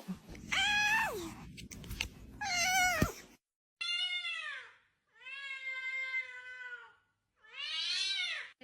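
A cat meowing: two meows over background noise, then three more with the noise gone, the middle one long and drawn out.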